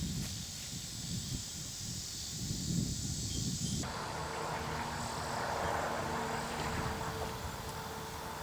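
Outdoor ambience of insects chirping, with a low uneven rumble like wind on the microphone. About four seconds in it cuts to a steady mechanical drone carrying a held low hum.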